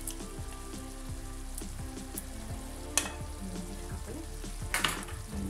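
Spaghetti in tomato sauce frying in a pan over a gas flame, with a sharp click about three seconds in and a short louder noise near the end.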